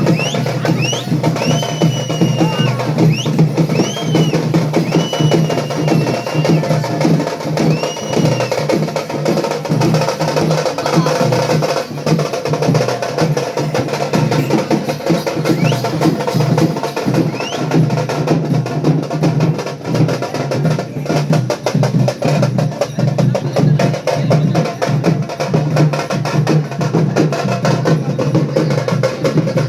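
Fast, loud festival drumming on dappu frame drums, the steady driving rhythm played for a Bonalu Potharaju dance. Shrill whistle-like glides sound over it in the first several seconds.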